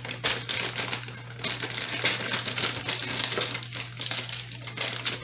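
Plastic bag of frozen egg noodles crinkling as it is handled, with a dense run of irregular crackles.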